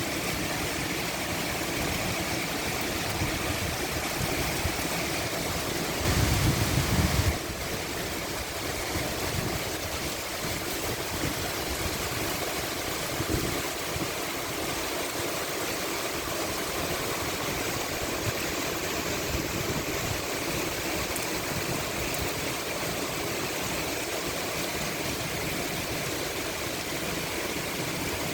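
Heavy rain falling steadily, as an even rushing hiss. About six seconds in, a louder, deeper rush lasts about a second and a half and then cuts off suddenly.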